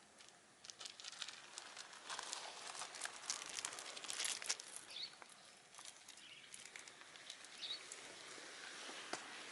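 Shiba Inu crunching and chewing chicken wing tips, bone cracking in quick crackling bites, densest in the first half and sparser later.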